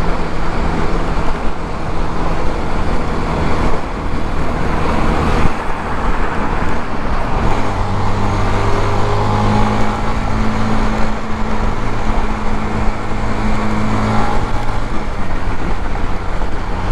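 Suzuki GZ250's single-cylinder engine running steadily at freeway speed, mixed with wind and road noise. A steady engine hum grows stronger for several seconds in the middle, then eases back.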